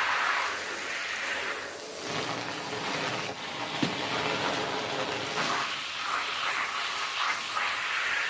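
Rug being wet-washed: a hiss of water spray and scrubbing that swells and fades, with a single sharp knock about four seconds in.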